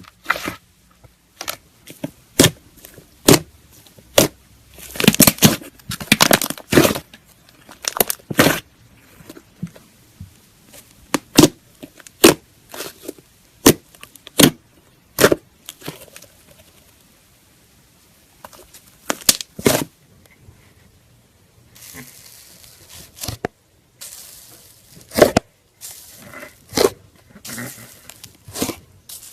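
Slime being squeezed and poked, making irregular sharp pops and clicks, some in quick clusters, with longer crackling stretches near the end.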